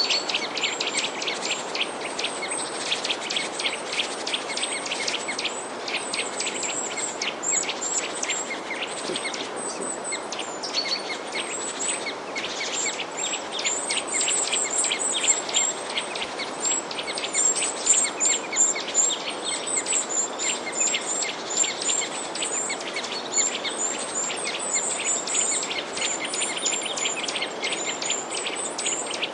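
Many small songbirds chirping in a dense, continuous chorus of quick high chirps, over a steady background hiss.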